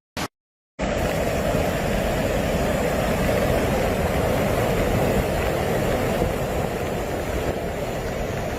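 Fast floodwater rushing past with a steady, loud noise, starting about a second in after a brief gap of silence.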